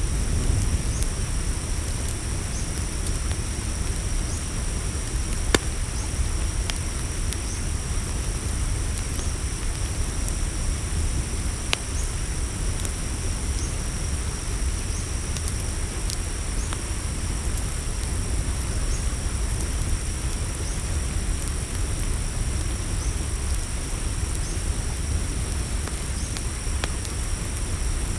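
Campfire crackling, with scattered sharp pops, two of them louder, over a steady low rumble and a continuous high chorus of crickets.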